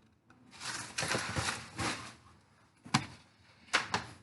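Rustling and handling noise of synthetic loc hair being worked, followed by three short, sharp clicks.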